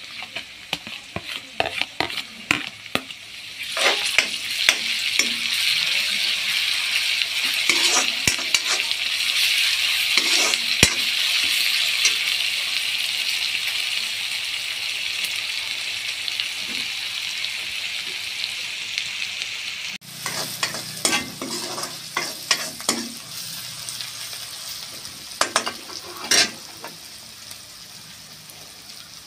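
Sliced onions frying in hot oil in a metal kadhai, sizzling steadily, with a metal spoon scraping and tapping against the pan and a plate. The tapping and scraping come first; the sizzle grows loud after about four seconds, as a chopped green mixture is added, and is softer in the last third, among more spoon scrapes.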